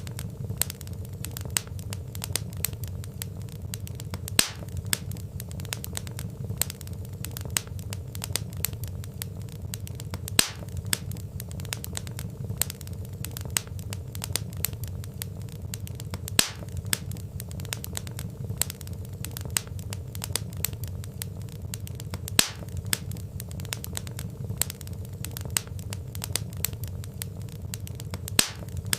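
Wood fire crackling steadily over a low rumble of burning logs, with small snaps throughout and a louder pop about every six seconds.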